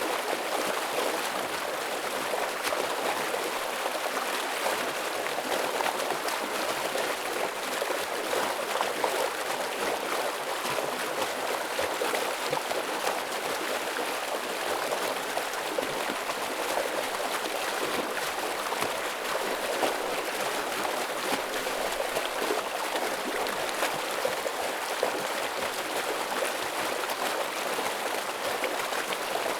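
Forest stream water rushing and splashing over rocks, a steady, dense flow.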